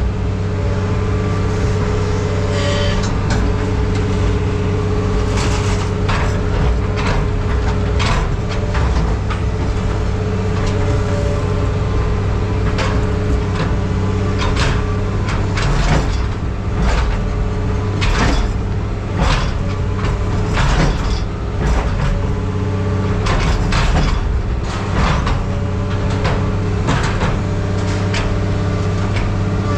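Heavy machinery running steadily, with repeated metal clanks and knocks as scrap metal is packed down.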